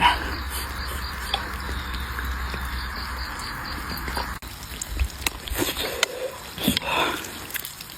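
Steady hiss that cuts off about four seconds in, followed by scattered crisp bites and chewing of fried tofu.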